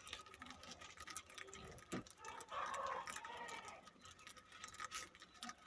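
Faint scattered clicks and taps with light bird chatter from budgerigars in the loft.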